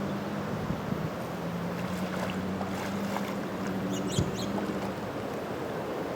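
Steady outdoor wash of wind and distant surf under a low motor hum that drops out now and then. A few sharp knocks, the loudest about four seconds in, and brief high chirps just after it.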